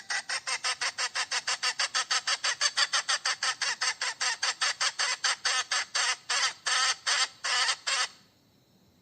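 Hen cackling in a fast, even run of short calls, about six a second. The calls space out and stop abruptly about eight seconds in.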